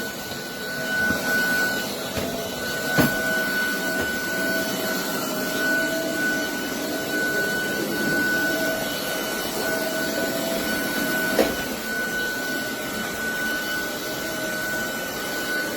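Roborock Dyad Pro cordless wet-and-dry floor vacuum running steadily, with a high steady whine over a lower wavering tone. Two short sharp clicks come about three seconds in and again near eleven seconds.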